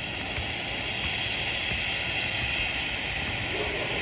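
Consumer firework fountain spraying sparks: a steady hiss that builds over about the first second and then holds.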